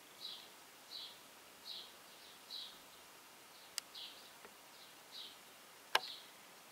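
Faint, short high chirps repeating evenly, a little more than one a second, like a bird calling over and over. Two sharp clicks cut in, the louder one about six seconds in.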